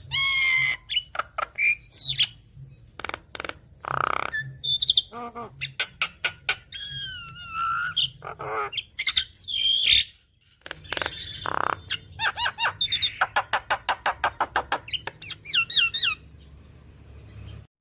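Javan myna (jalak kebo) singing a loud, varied song: sliding whistles, harsh notes and fast runs of clicking notes, with a brief gap about ten seconds in.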